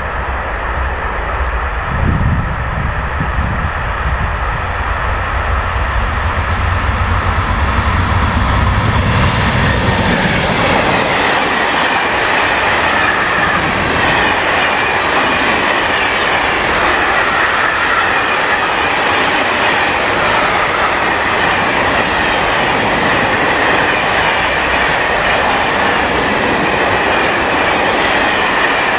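Electric freight train passing close by: a deep rumble as the locomotive goes past, giving way about ten seconds in to a long string of hopper wagons rolling by with steady wheel-on-rail clatter, clickety-clack and a thin wheel squeal.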